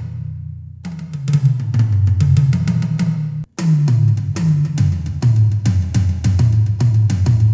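Donner DED-200 electronic drum kit's tom sounds played through its module: quick runs of hits stepping down in pitch. A ring dies away in the first second, and the sound breaks off for an instant about three and a half seconds in before the hits start again.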